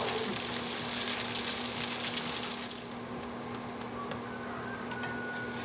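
Potato pancake of grated potato batter frying in a shallow layer of hot oil in a skillet: a steady crackling sizzle that eases after about two and a half seconds.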